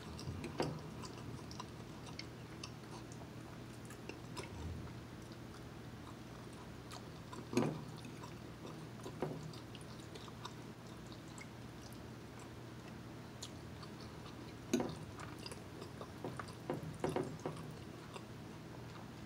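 Quiet chewing and mouth sounds of someone eating soft fettuccine alfredo, with a few sharp clicks of a metal fork against the plate, the loudest about halfway through and again near the end. A steady low hum runs underneath.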